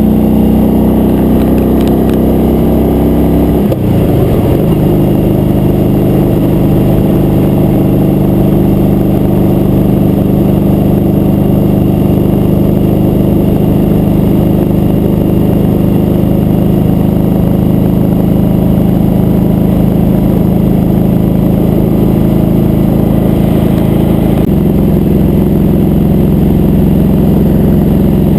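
Motorcycle engine running steadily while riding, heard from on the bike. There is a brief break in the engine note about four seconds in, like a gear change, and the note shifts again near the end.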